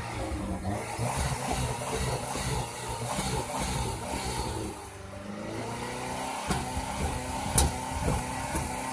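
Chrysler PT Cruiser Turbo's 2.4-litre turbocharged four-cylinder engine being revved with the throttle while Seafoam engine cleaner works through it, easing off about five seconds in and picking up again. A single sharp click stands out near the end.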